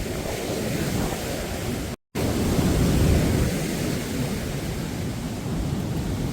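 Wind rumbling on the microphone over surf breaking on the beach, a steady low noise that cuts out completely for a split second about two seconds in.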